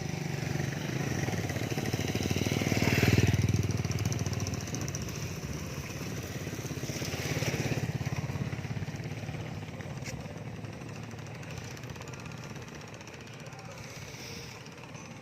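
Motorcycle engines passing on the street, loudest about three seconds in and again near eight seconds, then fading.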